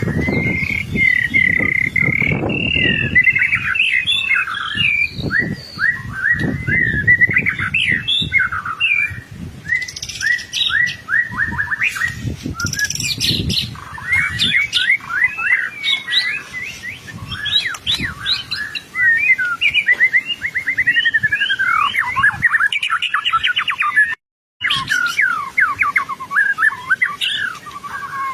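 White-rumped shama singing vigorously and without pause: a long, varied song of rapid trills, chattering note runs and whistled glides. A low rumble sits under the song in places, and the sound cuts out completely for a moment about 24 seconds in.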